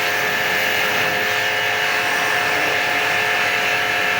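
Electric pressure washer running steadily, its pump motor giving a constant whine over the hiss of the water jet, used to wash an air conditioner.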